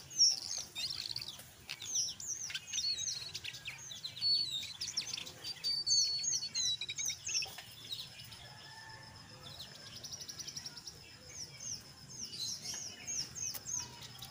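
Jongkangan coklat (brown jongkangan) bird singing in its 'ngeriwik' style, rapid runs of sharp, high, hooked chirps in quick clusters. There is a thin, steady, high note partway through.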